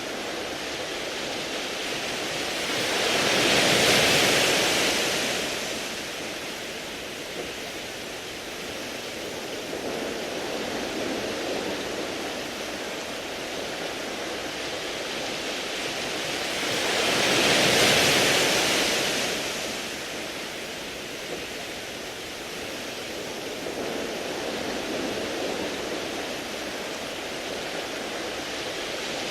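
Sea waves washing over a beach of smooth round pebbles: a steady hissing wash, with two surges that swell and fade about fourteen seconds apart.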